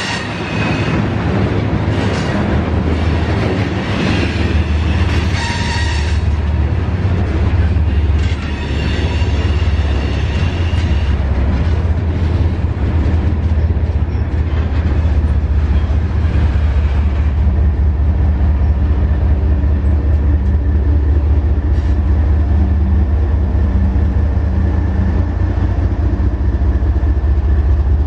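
BNSF freight train's cars rolling past with a heavy, steady rumble. Steel wheels squeal high-pitched against the rails for the first several seconds, then fade out, leaving the rumble.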